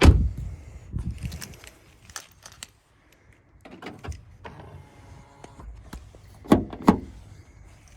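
Ford Mondeo mk4 front passenger door shut with a slam at the start. Clicks and mechanical whirring follow as the newly fitted door lock is tested, with two sharp clunks near the end.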